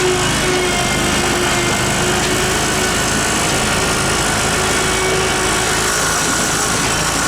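Kohler engine of a Dixon zero-turn mower running steadily after new ignition coils and spark plugs were fitted.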